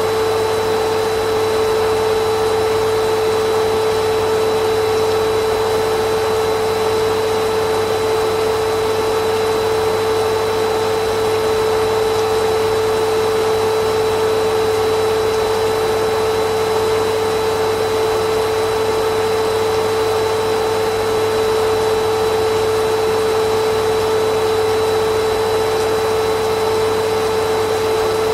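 Vacuum cleaner running steadily, its motor giving a constant whine over a broad rushing of air, with no change in pitch or level.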